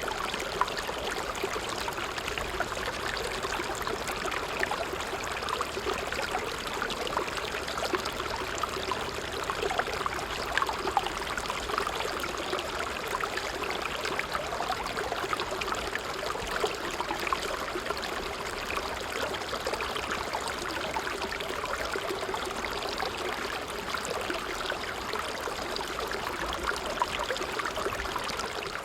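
A small creek flowing steadily, its water running and gurgling without a break.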